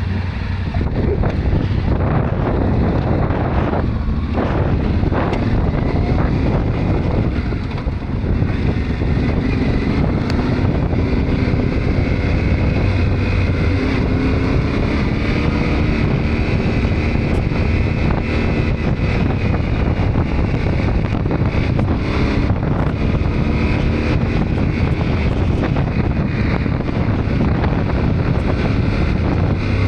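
Yamaha Ténéré 700's parallel-twin engine running steadily under way, with heavy wind noise buffeting the microphone.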